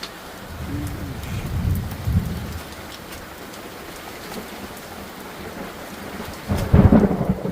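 Steady monsoon rain with thunder: a rumble about a second in, then a loud crack of thunder near the end.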